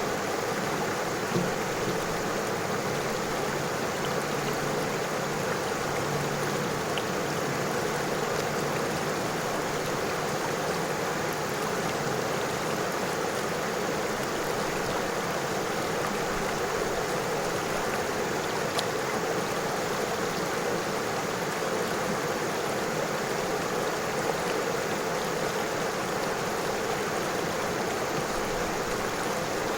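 River water flowing steadily over stones, a constant rushing and babbling with a few faint splashes.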